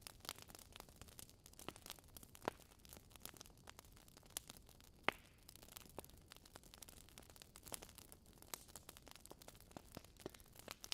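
Logs burning in a fireplace, crackling with irregular sharp pops over a faint hiss; the loudest pop comes about five seconds in.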